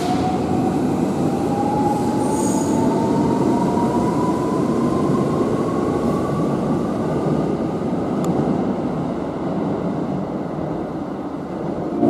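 Electric train accelerating along the platform: the rumble of its wheels and running gear, with a thin motor whine rising steadily in pitch over the first eight seconds or so.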